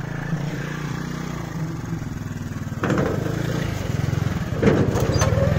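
Small Honda motorcycle engine running at low speed as it rolls along, growing louder about three seconds in and again near the end.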